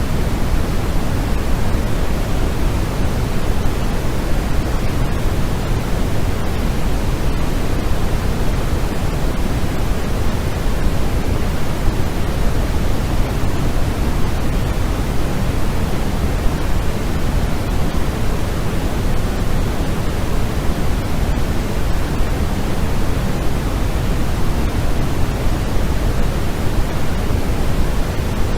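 Steady, unbroken white noise played for sleep, an even hiss heavier in the low end than in the highs.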